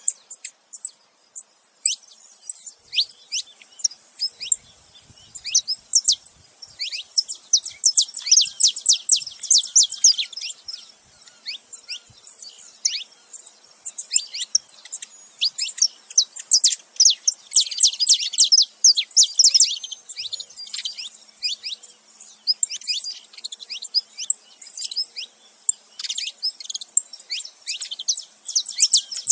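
A pair of saffron finches, male and female, calling together: rapid runs of short, high notes that each fall in pitch, packed into dense bouts with brief pauses between.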